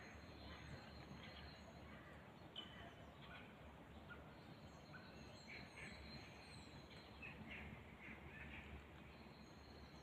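Faint birdsong of several small birds: short chirps and whistles scattered throughout, over a steady low background hum.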